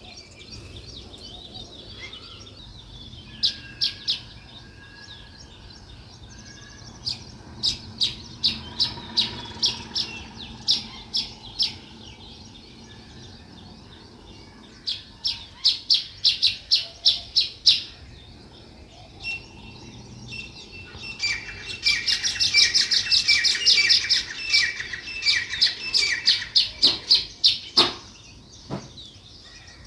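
Sparrows chirping in quick runs of short, high chirps, scattered at first. About two-thirds of the way in they build into a denser, louder chattering chorus.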